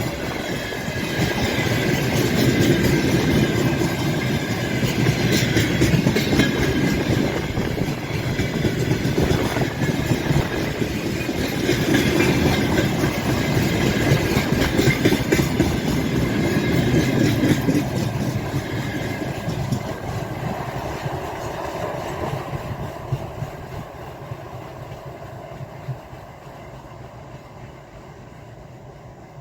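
Freight train wagons rolling past, wheels clacking over the rail joints, with a thin steady squeal from the wheels coming out of a curve. The sound fades away over the last ten seconds.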